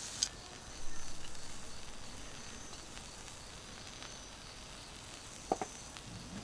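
Beef on a hot iron griddle sizzling quietly, with a click near the start and a louder spell of sizzling about a second in that slowly fades. A short, pitched animal call comes near the end.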